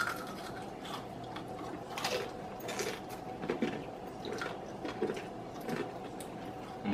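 Close-miked eating of crispy fried chicken: chewing, scattered crunches and mouth sounds, with a faint steady hum underneath.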